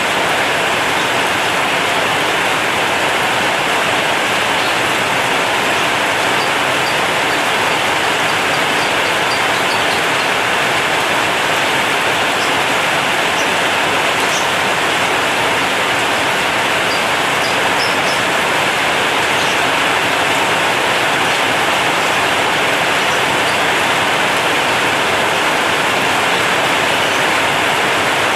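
Heavy rain drumming steadily on a corrugated zinc roof, a dense even hiss.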